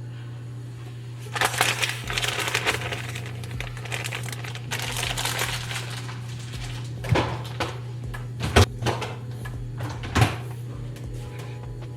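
Kitchen handling sounds during cooking: two spells of rustling and scraping, then a few sharp knocks and clatters, over a steady low hum.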